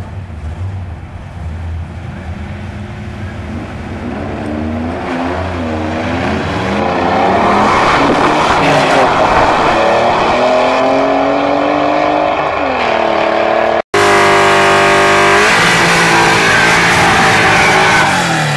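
Car engines revving hard and accelerating at full throttle, with tyre squeal. About 14 seconds in the sound cuts abruptly to another loud full-throttle run.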